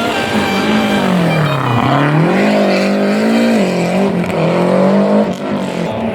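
Historic rally car's engine under hard use: the revs fall to a low point about two seconds in, climb back up and hold high, then drop away sharply a little after five seconds in.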